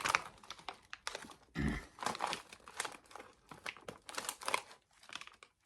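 Plastic Skittles candy bag crinkling as it is handled, in irregular crackles, with a short dull sound about one and a half seconds in.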